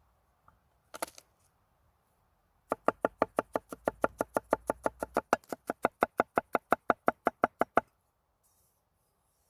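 A knife chopping vegetables rapidly on a cutting board, about seven even strokes a second for some five seconds, after a single knock about a second in.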